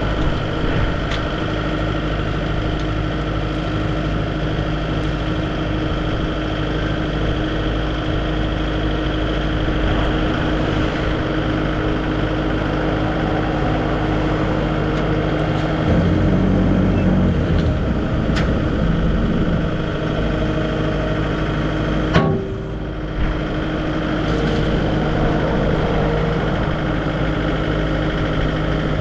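A vehicle engine running steadily. It gets briefly louder a little over halfway through, and there is a single sharp knock followed by a short dip about three quarters of the way through.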